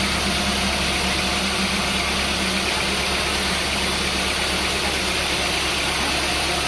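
An engine running steadily at idle, an even hum with no revving or load.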